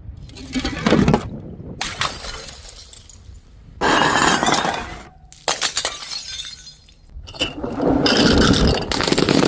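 Glass bottles smashing one after another, about five breaks in all, each a sharp crash trailing into tinkling, crunching shards; the last one, near the end, is the longest.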